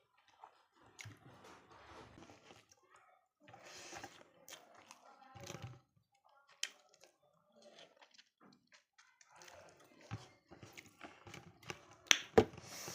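Close-miked eating of mutton and rice: chewing, wet mouth sounds and scattered sharp clicks, with the loudest clicks near the end.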